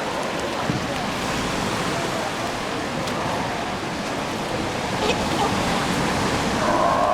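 Steady rushing noise of sea water and wind on the microphone, with a few faint clicks.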